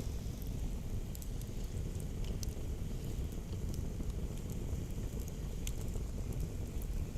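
Campfire crackling: scattered sharp pops and ticks over a steady low rumble.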